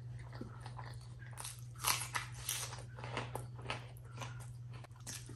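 Close-up chewing and eating of a handful of rice with mashed potato bharta: a run of wet mouth clicks and smacks, loudest about two seconds in, over a steady low hum.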